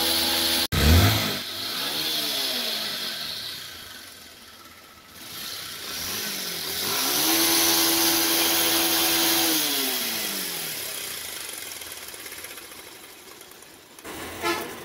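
Bajaj Pulsar 150's single-cylinder four-stroke engine running and being blipped, its pitch rising and falling with the throttle. About a second in it briefly cuts out with a loud low thump, and it dies away near the end. The engine runs rough and won't stay running, which the mechanic puts down to lost compression (worn piston rings, burnt valve).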